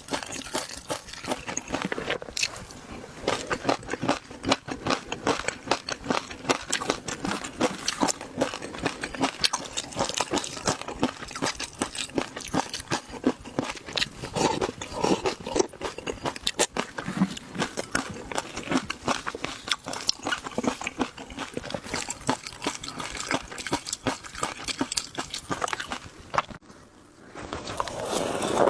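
A person chewing and crunching crunchy spicy shrimp and rice snacks at close range: dense, irregular crunches and wet chewing, with a short lull about 26 seconds in.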